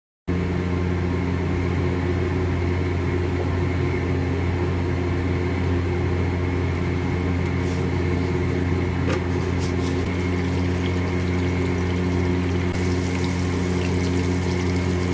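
A steady machine hum that starts suddenly just after the beginning and holds unchanged, with a few faint clicks around the middle.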